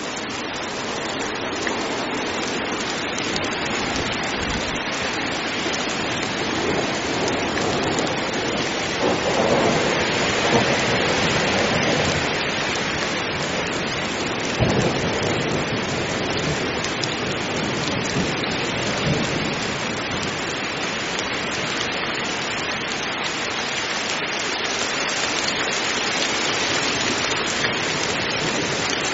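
Heavy rain falling steadily, with low rumbles of thunder around ten seconds in and again near fifteen seconds.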